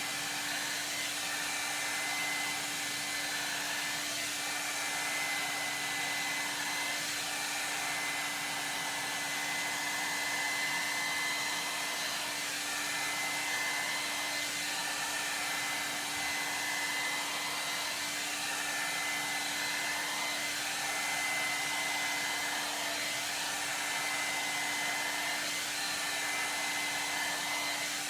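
Ionic hair dryer running steadily, a constant rush of airflow with a low hum and a faint high whine from the motor, as it blows through hair.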